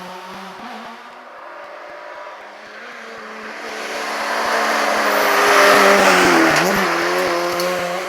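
Rally car engine passing at speed: a steady engine note that grows louder to a peak about six seconds in, dips briefly in pitch as it goes by, then fades a little.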